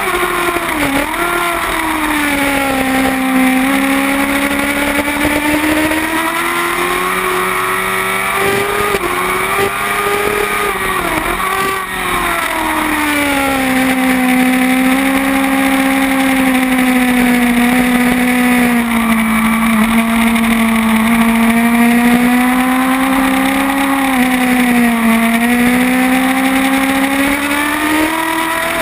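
Kawasaki ZX-10R's inline-four engine at high revs, heard from a camera mounted on the bike. The pitch dips and recovers a few times with gear changes and corners, and holds steady for several seconds in the middle.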